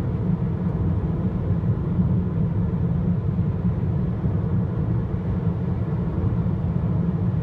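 Steady low rumble with no pitch and no breaks, like road noise inside a moving car or wind buffeting the microphone.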